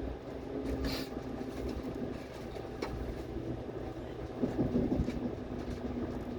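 Moving train's steady running rumble heard from inside a passenger car, with a low hum and a few short clicks about one and three seconds in.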